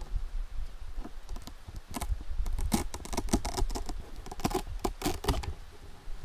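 A quick, irregular patter of small clicks and rustles, denser in the middle and dying away near the end, over a low rumble.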